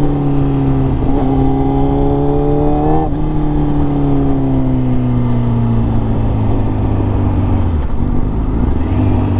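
Honda CBR1000RR-R Fireblade SP's engine through an SC Project exhaust, still fitted with its catalytic converter and sounding raspy, heard from the rider's seat. It climbs in pitch for about three seconds with short breaks, then winds down steadily as the bike rolls off, settling lower near the end.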